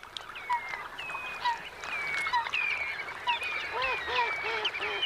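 Several wetland birds calling: a steady chatter of short, repeated high calls, joined near the end by a quick run of four or five lower, arching calls.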